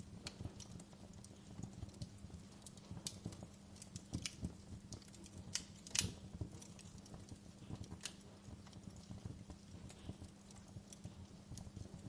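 Wood fire burning in a fireplace: irregular crackles and sharp pops, the loudest pop about six seconds in, over a low steady hum.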